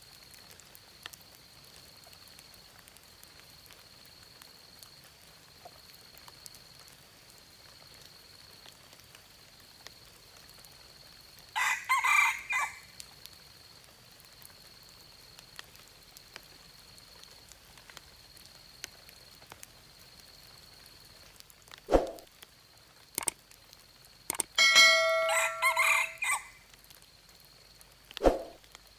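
Junglefowl rooster crowing twice, a short crow about twelve seconds in and a longer one later, with two dull thumps in between and after, over a faint steady high-pitched tone.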